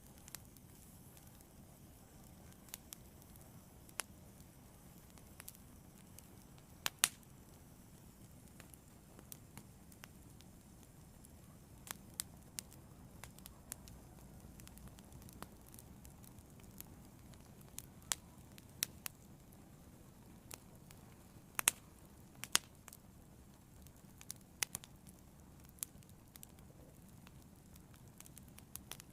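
Fire burning: irregular sharp crackles and pops scattered over a faint low hiss.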